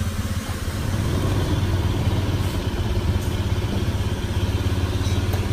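A motorcycle engine running steadily at idle, a low even hum.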